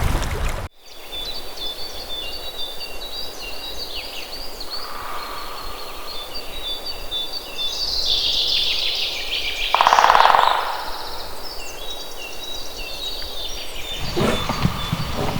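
Wild birds singing: many short, high, clear notes repeated in stepped phrases. About ten seconds in comes a louder, rattling pulsed call.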